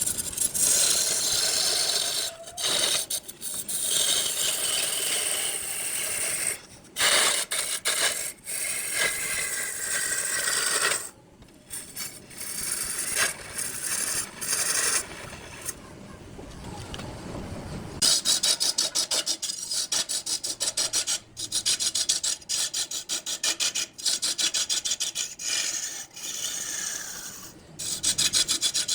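Wood being turned on a lathe: a tool scraping and rasping against the spinning wood block. It is broken by several abrupt cuts, and in the second half it becomes a fast, regular chatter.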